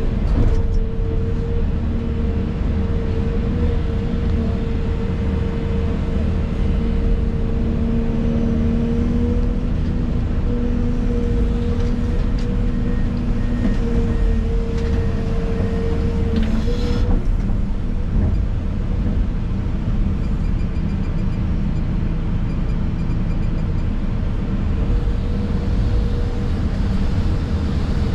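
Excavator's diesel engine and hydraulics running steadily, heard from inside the operator's cab, with a low rumble and a whine that drops out and comes back several times. A couple of brief knocks, one near the start and one about two-thirds of the way in.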